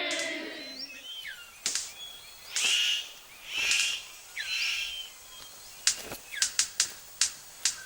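Superb bird of paradise calling: a few short whistled, gliding notes, then four harsh calls about a second apart. Near the end comes a quick run of sharp clicks or snaps.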